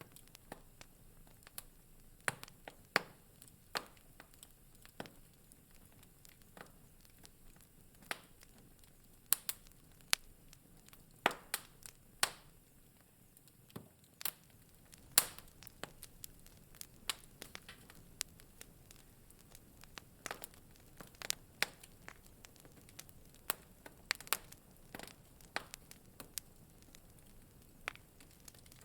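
Wood fire in a fireplace crackling: irregular sharp pops and snaps, a few louder than the rest, over a faint steady hiss.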